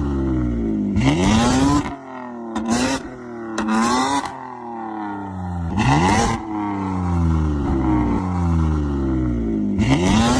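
Heavy diesel truck engine revved several times: each time the pitch shoots up with a hissing rush, then sinks slowly back as the engine winds down.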